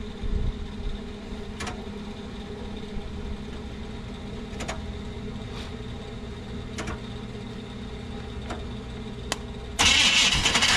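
Truck starter being tried on an engine: a few sharp clicks, spaced irregularly a second or more apart, over a steady low hum. About ten seconds in, the starter suddenly catches with a loud whirring grind. The starter is engaging only half-heartedly, 'yeah and no at the same time'.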